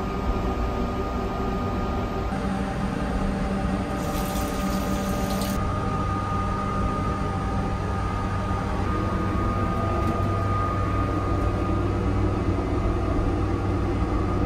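Steady running noise of the Saphir Odoriko, an E261-series electric train, heard inside its small toilet compartment: a low rumble with faint steady tones. A brief hiss comes about four seconds in and lasts under two seconds.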